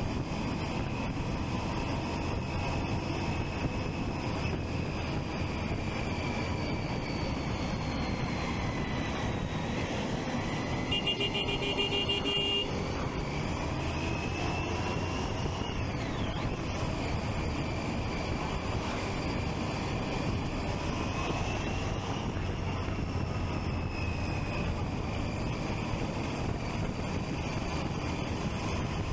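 Triumph Street Triple 675's three-cylinder engine running while riding, its revs drifting gently up and down with a quick drop about sixteen seconds in. A vehicle horn honks once for about a second and a half, some eleven seconds in.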